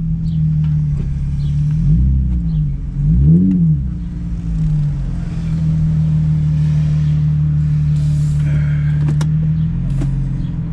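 Infiniti G35's V6 engine and exhaust heard from inside the cabin while driving: the engine note rises and falls twice in the first few seconds, then settles into a steady drone.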